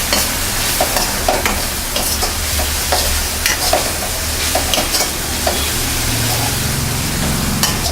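Onions, green chillies and ginger-garlic paste sizzling in oil in a kadai while a spoon stirs them, scraping and clicking against the pan every so often. A low steady hum runs underneath.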